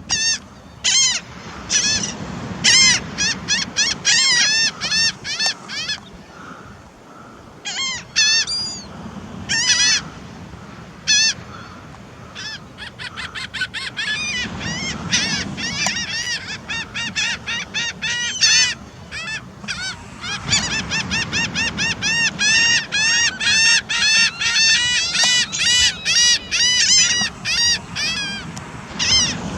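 Birds calling in quick series of short, honk-like calls, scattered at first and coming thick and fast from about two-thirds of the way through.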